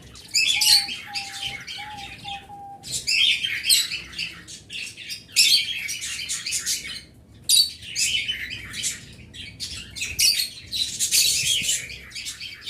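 Small pet birds chirping and chattering, many high calls overlapping in dense bursts with short breaks about three and seven seconds in. Four short lower notes sound in the first few seconds.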